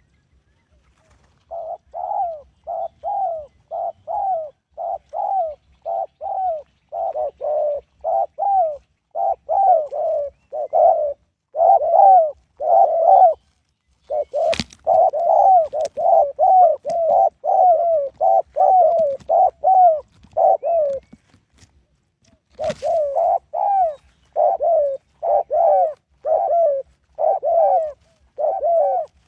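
Spotted dove cooing: a fast run of short repeated coos, about two a second, pausing briefly twice. Two sharp clicks cut in, about halfway through and again about three-quarters through.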